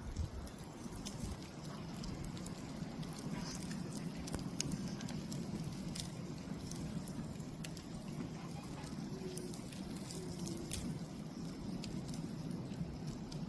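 Wood campfire burning, with a steady low rush and scattered sharp crackles and pops from the burning wood.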